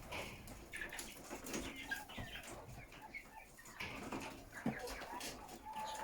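A flock of chickens clucking and calling: many short, overlapping calls.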